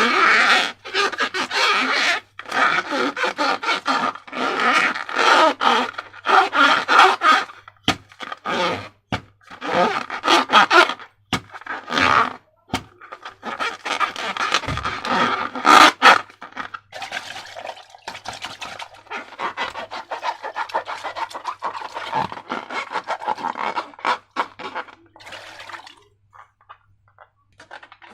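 Slime being worked, making a run of irregular scraping strokes that fall quiet near the end.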